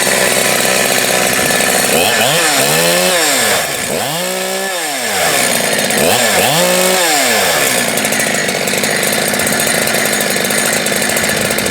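High-compression two-stroke chainsaw, just restarted warm without its compression release, running at a steady high idle and revved up and back down three times.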